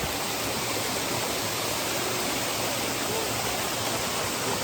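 Mountain creek rushing steadily over rocks, an even wash of running water.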